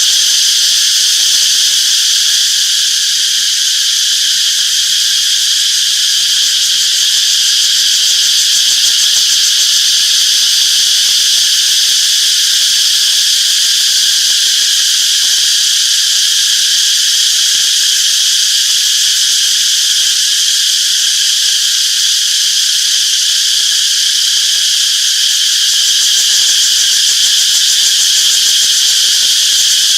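Chorus of cicadas buzzing in a steady, unbroken high-pitched drone.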